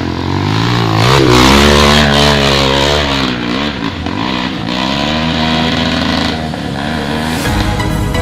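Trail motorcycle engine revving, its pitch rising and falling again and again as the throttle is worked.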